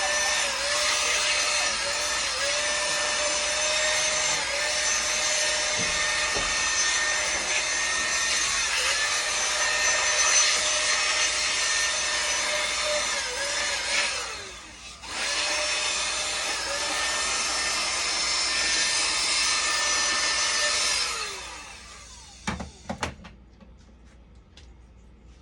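Handheld electric power tool running at high speed, its pitch dipping now and then as it meets load; it stops for about a second midway, runs again, then winds down and stops, followed by a couple of knocks.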